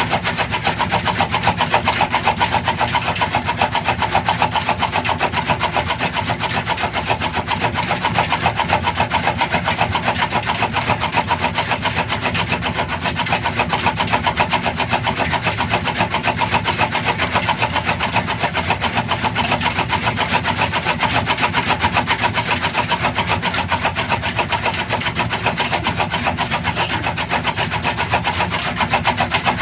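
'Black Peter' single-cylinder diesel engine running steadily at speed, with a fast, even beat.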